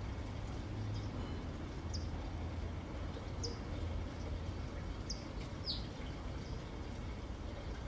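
A small bird giving a few short, high chirps that slide downward, spaced a second or so apart, over a steady low rumble.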